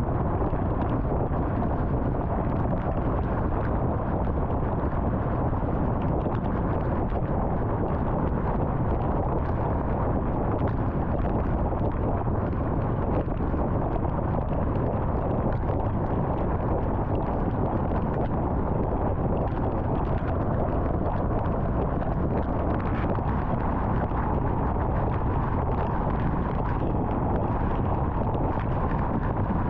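Steady road noise of a car at highway speed: tyre rumble and wind noise, even and unchanging.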